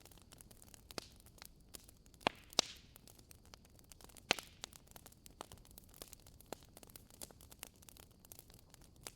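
Wood fire burning in a fireplace, crackling with irregular sharp pops and snaps over a faint steady hiss. A few louder snaps come about two and a half and four seconds in, one followed by a brief hiss.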